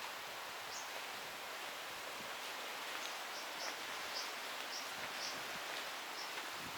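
Outdoor ambience: a steady rustle of wind through leaves, with a series of short high chirps, about two a second, from a small bird starting about three seconds in.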